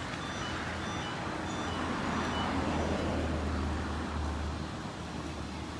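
Road traffic noise: a steady low engine hum under a wash of vehicle noise, swelling louder in the middle as if a vehicle passes.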